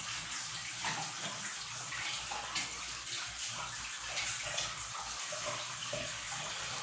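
Pork ribs frying in hot fat in a pan: a steady sizzle with small pops and crackles throughout.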